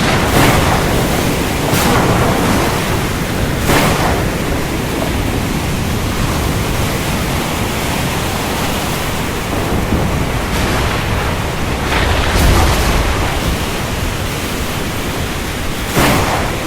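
Steady heavy rain, with a low rumble of thunder about twelve seconds in and several brief swells of louder rush.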